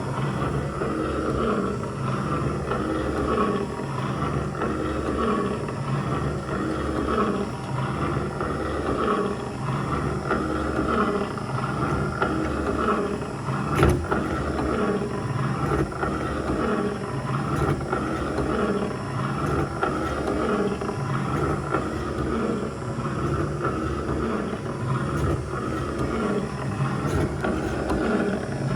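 Kubota KH-007 mini excavator's diesel engine running steadily, its sound swelling and easing about once a second. A single sharp knock comes about halfway through.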